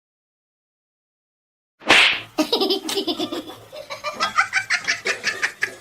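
Silence for nearly two seconds, then a sharp hissing burst and a person laughing in quick, rapid pulses.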